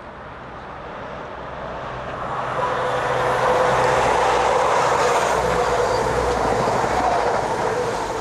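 East Midlands Trains Class 222 Meridian diesel multiple unit passing through the station at speed. It grows louder as it approaches and stays loud through the middle: a rush of wheels on rail with a steady hum from the train.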